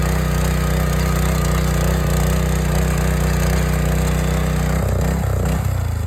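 Small farm tractor's engine running steadily, then about five seconds in its speed drops and wavers as it begins to wind down toward stopping.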